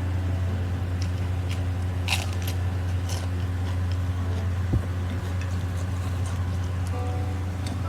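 Eating sounds: biting and chewing a mouthful of spicy food, with scattered crisp crunches and wet clicks, the sharpest about two seconds in and a dull thump a little before five seconds. A steady low hum runs underneath.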